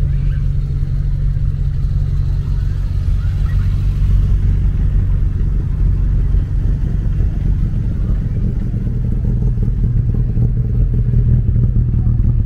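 Classic car engines idling close by: a steady low engine note that grows a little louder in the last few seconds.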